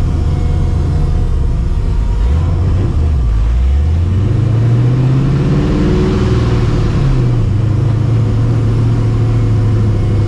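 Cammed, Procharger-supercharged 5.4-litre iron-block V8 of a 1999 Mustang GT running at low revs, rising in pitch as it accelerates a few seconds in, then holding a steady cruise with a brief dip near the middle.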